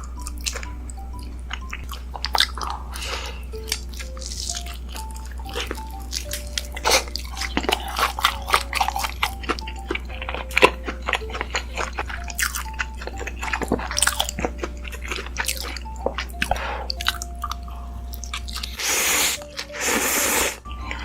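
Close-miked chewing of a kimchi dumpling, with wet mouth clicks and squishes. Near the end come two long noisy slurps, about a second each. Soft background music with a simple melody plays underneath.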